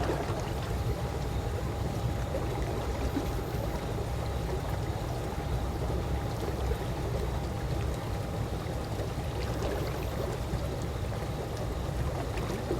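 Calm swimming-pool water lapping and trickling in a steady wash, with small splashy ticks and a faint steady tone underneath.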